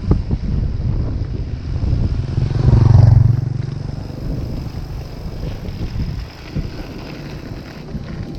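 A motor vehicle passes close, loudest about three seconds in and fading soon after, over a steady low rumble of wind on the microphone.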